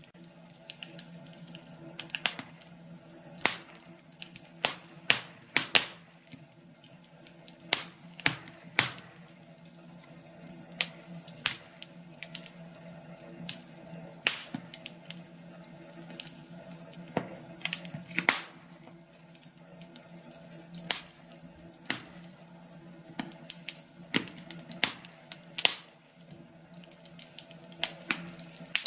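Wood fire crackling: irregular sharp pops and snaps, a few louder ones every second or so, over a faint steady low hum.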